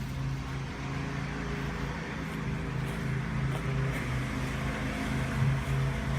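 A steady, low, engine-like motor hum with an even background noise.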